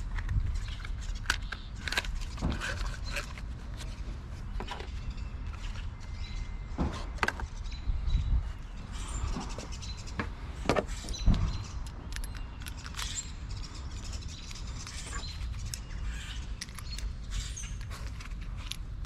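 Scattered light clicks and knocks of hand tools and engine parts being handled while changing a spark plug, over a steady low rumble, with faint bird chirps.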